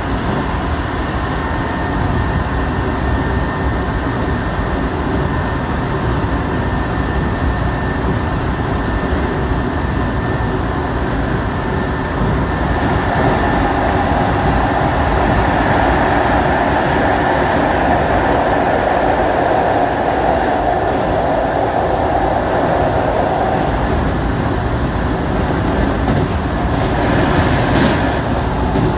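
Inside a Shibayama Railway 3500-series electric train under way: a steady rumble and hiss of wheels on the rails. It grows louder for about ten seconds in the middle, while the train runs close beside a concrete wall, and there is a short clatter near the end.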